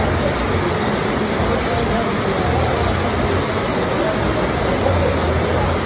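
Heavy rain pouring down, a steady dense hiss, with indistinct voices faintly mixed in.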